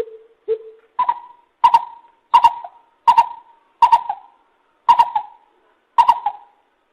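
Lesser coucal calling: two lower notes, then a run of seven higher, sharp-edged notes at a steady pace that slows slightly near the end.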